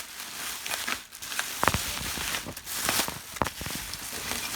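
Packaging crinkling and rustling as it is torn open, with a few sharp knocks.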